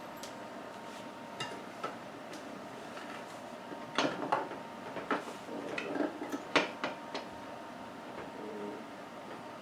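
Big pliers clicking and clanking against a 10-inch dirt bike wheel rim while working the tire bead loose. The knocks are scattered and come thickest in the middle.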